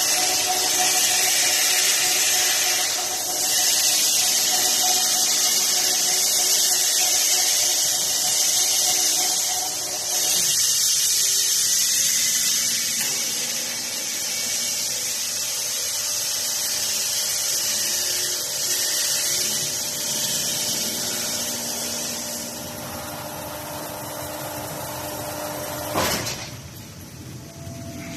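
Industrial machinery running: a steady high-pitched hiss over a hum with several tones, easing off briefly a few times. A single sharp knock comes near the end, after which the running sound is quieter.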